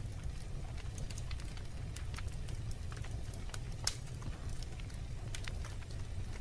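Wood fire burning in a fireplace: a steady low rumble of the flames with scattered sharp crackles and pops, the loudest pop about four seconds in.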